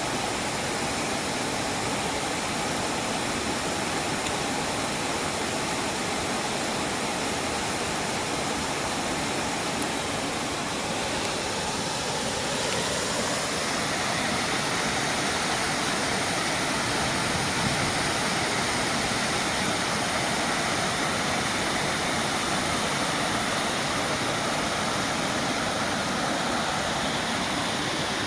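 Waterfall rushing: a steady, full wash of falling water, a little louder and brighter about halfway through.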